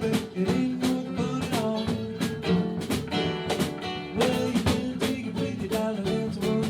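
Live band playing an instrumental passage: guitar over a steady drum-kit beat.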